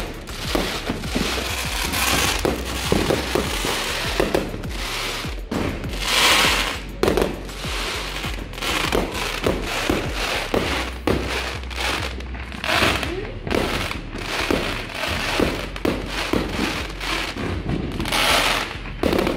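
Aerial fireworks going off overhead: a steady run of pops and bangs, with crackling showers swelling into louder bursts about six, thirteen and eighteen seconds in.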